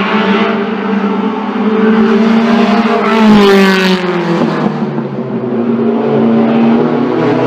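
Classic racing car engine accelerating hard up the hill climb, its pitch climbing, then dropping sharply about four and a half seconds in at an upshift before climbing again. It is loudest just before the shift.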